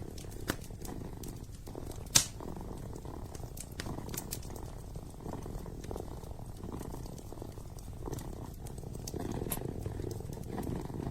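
A kitten purring steadily and close, with a fireplace crackling over it in scattered sharp pops, one louder crack about two seconds in.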